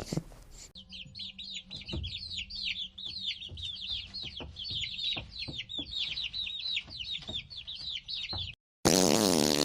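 Chicks peeping: many quick, high calls that each slide downward, several a second, with scattered light knocks underneath. Near the end the clip cuts to a loud, buzzing fart-like sound effect.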